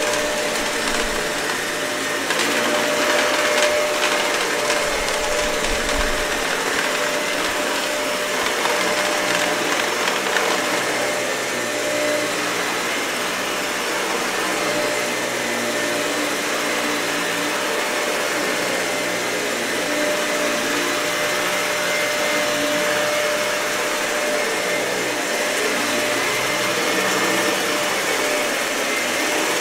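Dyson vacuum cleaner running steadily while being pushed over matted carpet, with a steady motor whine.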